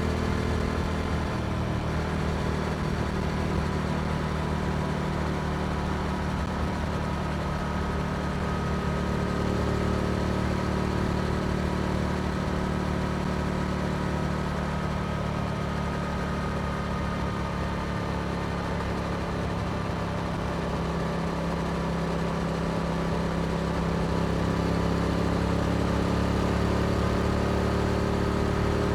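Yamaha R7's parallel-twin engine through an Akrapovic exhaust, running steadily at a road-riding pace; the engine note eases slightly mid-way and climbs again near the end.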